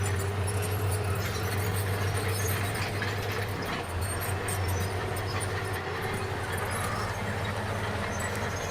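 Bulldozer working: its diesel engine running with a steady low drone under a continuous clatter of the steel crawler tracks.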